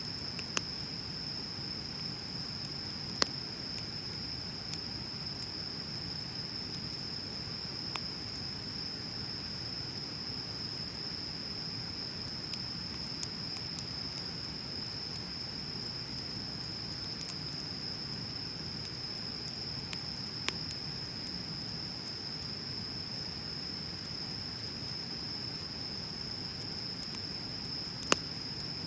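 Wood bonfire burning with a low steady rush and occasional sharp pops and crackles, the loudest about three seconds in and again near the end. A constant high-pitched insect trill runs underneath.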